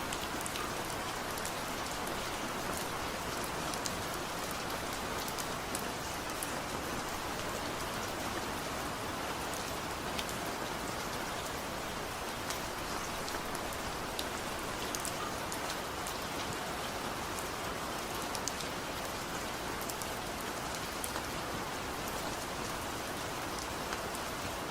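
Steady rain falling, an even hiss with scattered individual drops ticking sharply. No thunder.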